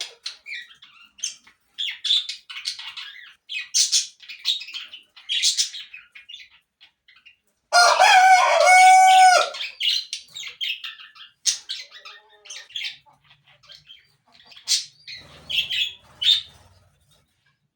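Small birds chirping in quick, scattered calls, with a rooster crowing once, loudly, about eight seconds in.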